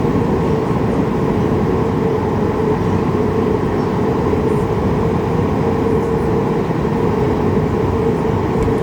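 Steady cabin noise inside a Boeing 737 MAX 8 airliner: a dense rumble with a steady hum-like tone on top, unchanging throughout.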